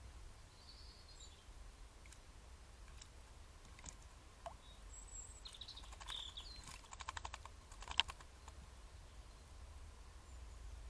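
Blackbird bathing: a quick burst of clicky splashes about seven seconds in and one sharper splash a second later, with faint bird chirps and a steady low hum.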